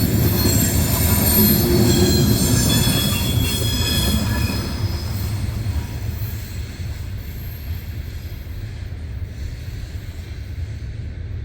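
Loaded coal hopper cars rolling past, their wheels squealing in high steady tones over a low rumble. The squeal dies away about halfway through, and the rumble slowly fades as the train moves off.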